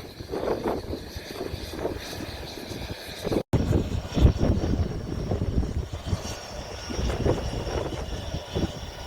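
Airplane engine running, with gusty wind buffeting the microphone. The sound cuts out for an instant a little over a third of the way in.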